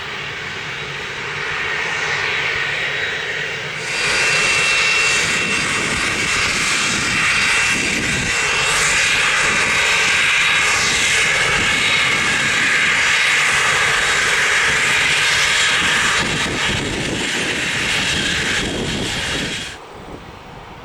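Private business jet's engines at close range: a loud rush with a high steady whine, and whistling tones sliding down in pitch as it passes. The sound jumps up sharply about four seconds in and cuts off abruptly near the end.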